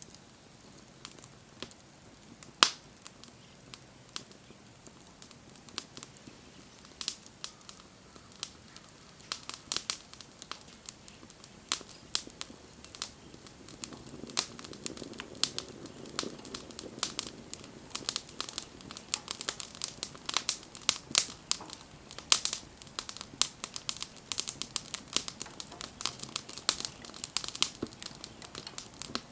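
Wood fire crackling and popping: sparse sharp pops at first, growing into busy, continuous crackling about halfway through as the fire catches.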